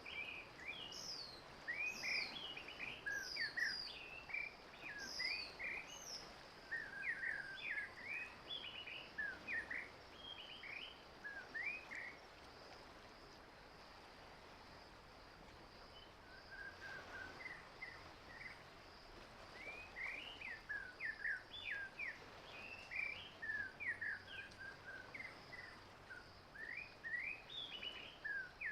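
Small wild birds chirping and twittering in quick runs of short, sharp, sliding notes, with a lull of a few seconds about midway, over a steady high-pitched insect buzz.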